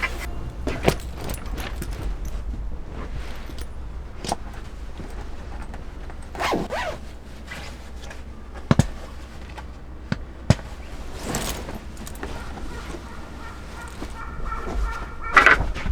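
Camp gear being handled: scattered light knocks and clicks, with two short rustling or zipping sweeps, over a steady low rumble.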